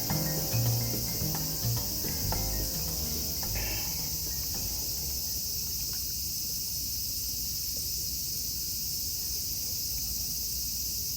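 Steady high-pitched chorus of insects chirring in woodland, with background music notes that stop about four seconds in.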